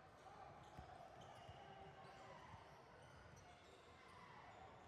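Faint, irregular thumps of a basketball bouncing on a gym floor, with a murmur of distant voices.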